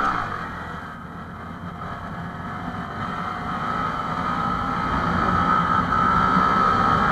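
Small motorcycle engine held at steady high revs, growing steadily louder as it comes closer.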